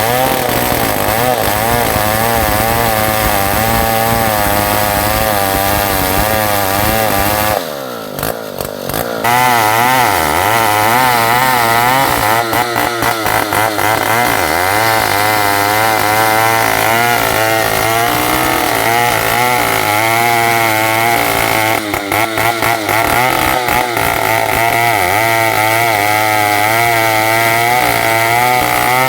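New West 707 two-stroke chainsaw running at high revs while rip-cutting an ulin (ironwood) log lengthwise. Its pitch wavers as the cut loads it. The engine drops off briefly about eight seconds in, then comes back up to full speed.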